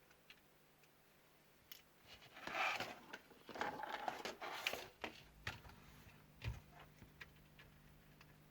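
Handling noise on a workbench: light clicks, then a few seconds of rustling and scraping as small parts and tools are moved, and a dull knock near the end.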